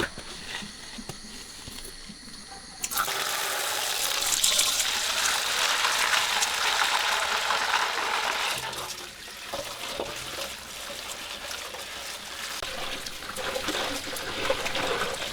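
Water starts running and splashing suddenly about three seconds in, a steady rushing hiss that eases for a few seconds in the middle and picks up again near the end.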